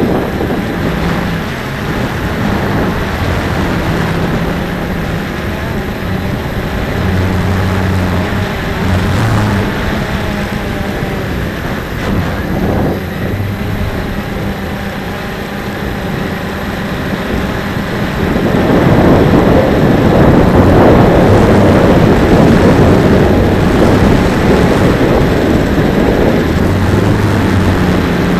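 Strong wind buffeting the microphone, with a low wavering hum underneath; the gusting gets louder and heavier about two-thirds of the way through.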